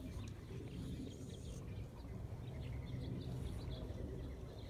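Faint, scattered chirps of small wild birds over a steady low rumble of outdoor background noise.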